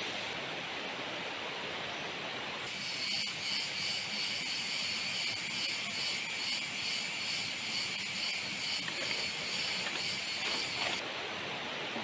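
Steady hiss of heavy rain on jungle vegetation. From about three seconds in, a loud, high-pitched pulsing drone joins it and cuts off suddenly near the end.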